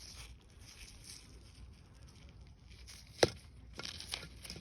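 Stones being handled: light rustling and scraping, then one sharp click about three seconds in, followed by a few softer clicks.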